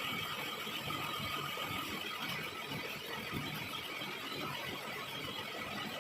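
Lathe running while single-point cutting a coarse 3 TPI thread in a cast iron nut, with a steady high-pitched whine over the machine noise.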